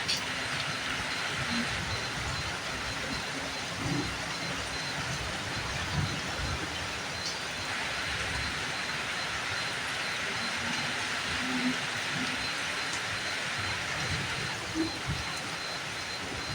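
Steady rainfall, an even hiss, with a few soft low knocks scattered through it.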